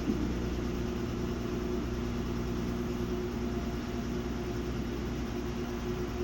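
Samsung WA50R5200AW top-load washing machine running with a steady, unbroken motor hum and a few constant low tones, with no pauses or changes.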